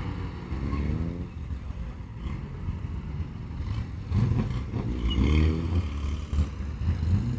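Small Rootes Imp-family cars pulling away, their engines revving up; two rising engine notes, one starting about half a second in and another about four seconds in, over a steady engine rumble.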